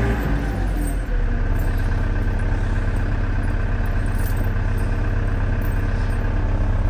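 Caterpillar 914 compact wheel loader's diesel engine running steadily, with a brief shift in its note about a second in.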